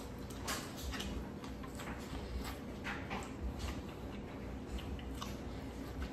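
Close-up eating sounds: wet chewing and mouth smacking, with irregular sharp clicks and crackles.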